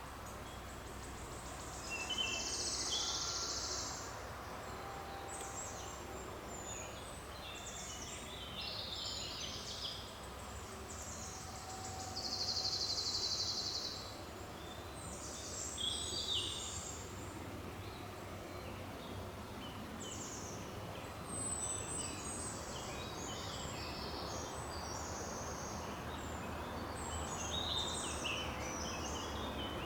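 Several birds singing and calling at once, with many short high chirps and two long, high trills, one about two seconds in and one about twelve seconds in, that stand out as the loudest sounds. A faint steady low rumble runs underneath.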